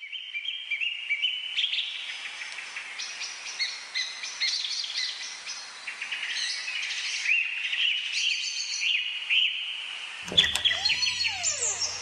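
Many small birds chirping and singing at once, a dense run of quick overlapping calls. About ten seconds in, a louder sound with a low hum and a tone that rises and then falls cuts across the birdsong.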